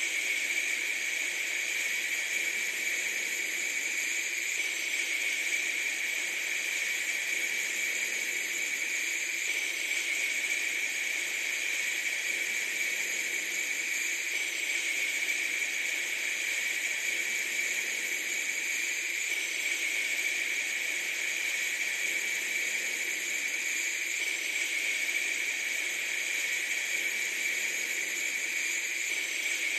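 Steady hiss of noise, strongest in the upper range with a brighter band in the treble, with slight changes that repeat about every five seconds.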